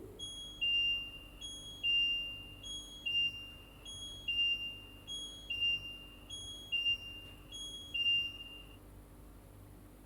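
LG washing machine's electronic chime: a short higher note followed by a longer lower one, repeated about eight times and stopping about nine seconds in, the tune that signals the wash cycle has finished.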